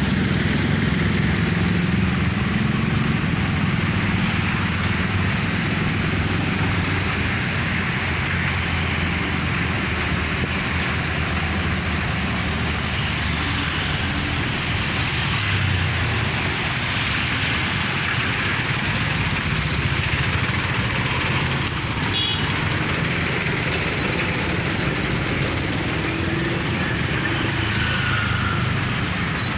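Dense road traffic passing continuously: a steady rumble of vehicle engines and tyres.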